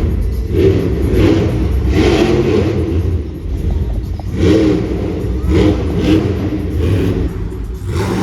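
Monster truck engines revving loudly in repeated surges.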